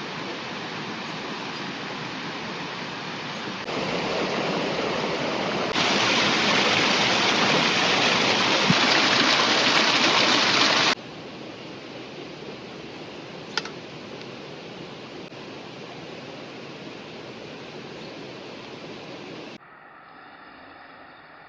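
Rushing river water: a steady noise that jumps abruptly louder, then quieter, several times, with one short click about two-thirds of the way through.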